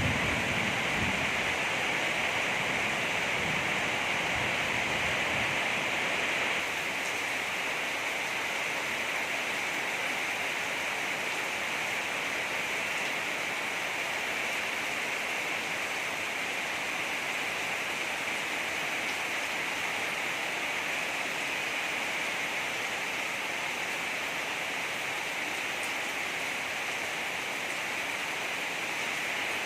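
Heavy rain falling steadily in an even hiss, dropping slightly in loudness about six seconds in.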